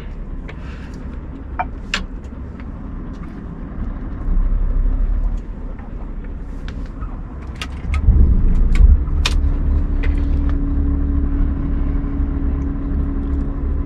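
Scania R580 truck's V8 diesel engine running with a low, steady rumble and scattered small clicks and knocks. About eight seconds in, the engine gets louder and a steady hum joins it.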